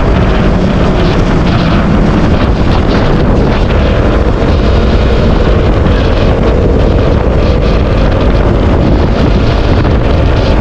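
Steady, loud wind rush on the microphone of a moving KTM RC 200 motorcycle, with its single-cylinder engine running underneath.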